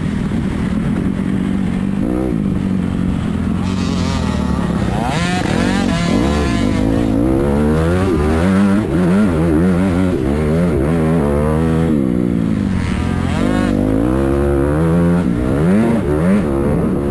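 Several motocross dirt bike engines on the track, revving up and down as they accelerate and shift, with overlapping pitches rising and falling from about four seconds in. Before that, one engine runs at a fairly steady pitch.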